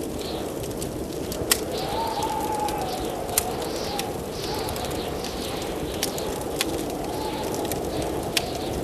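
Blizzard wind howling and whistling, rising and falling in pitch over a steady rush, with the sharp pops and crackles of a wood fire burning in a fireplace. The loudest pops come about a second and a half in and again about three and a half seconds in.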